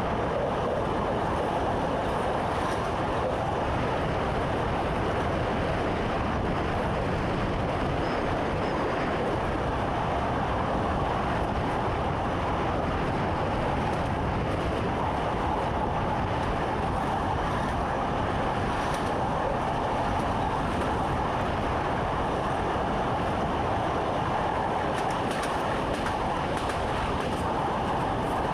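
Electric train running steadily, heard from inside the driver's cab: an even rumble and rail noise with a few faint clicks.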